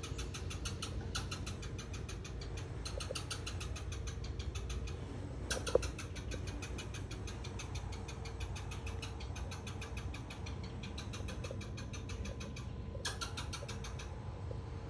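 Squirrel alarm chatter: a rapid, steady series of sharp chirps, many a second, in bouts of one to two seconds with short pauses, scolding a dog.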